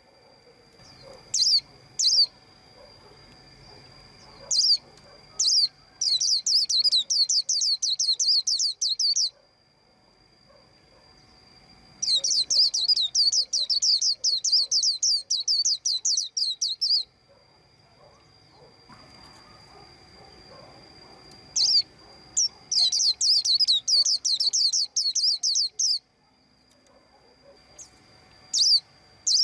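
White-eye chirping: a few single high calls, then three runs of rapid twittering lasting several seconds each, the first about six seconds in, the second near the middle and the third near the end.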